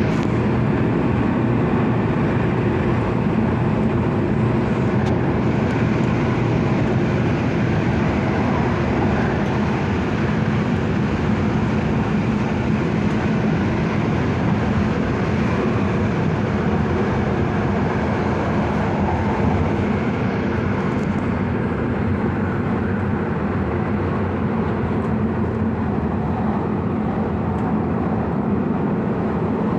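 MTR Airport Express CAF-built train running, a steady, unbroken noise of the moving train with a few faint steady tones in it.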